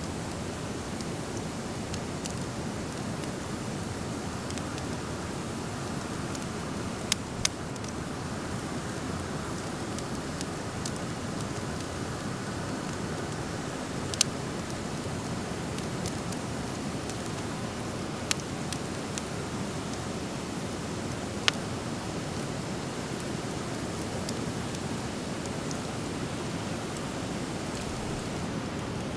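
Driftwood campfire burning with a steady hiss and a handful of sharp crackling pops.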